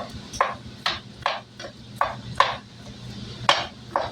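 About ten sharp clacks of a kitchen utensil striking a pan or board in an uneven rhythm, with a pause about two and a half seconds in, over the steady low hum of a microwave oven running.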